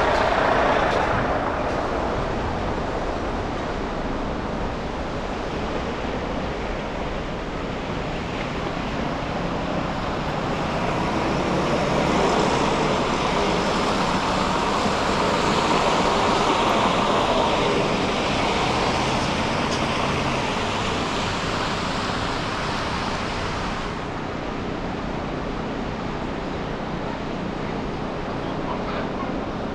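Steady city traffic noise heard from a driving car on wet, slushy streets: an even hiss of tyres and passing vehicles that swells about halfway through and eases a little later on.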